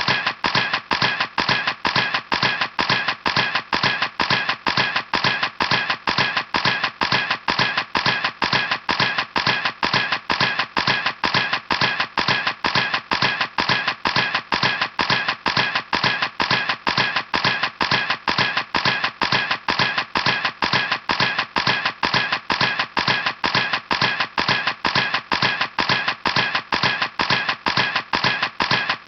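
Camera clicking in a steady, even rhythm, about two and a half sharp clicks a second, without a break.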